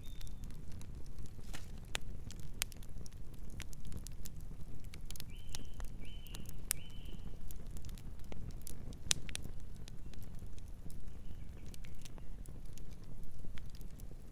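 Wood fire crackling, with irregular sharp pops over a low steady rumble. A bird chirps three times about five to seven seconds in, and faintly once more later.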